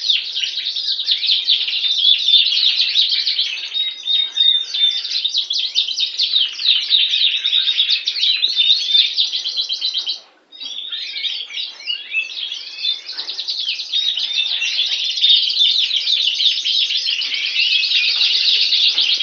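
Canary song: a continuous, fast stream of trills and chirps, breaking off for a moment about ten seconds in and then resuming.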